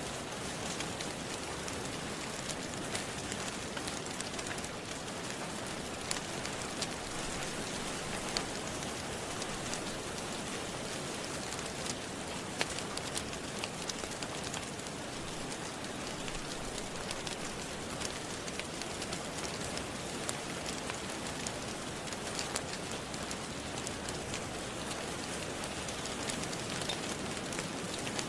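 Steady rain falling, mixed with the scattered sharp pops and crackles of a wood fire burning in a fireplace.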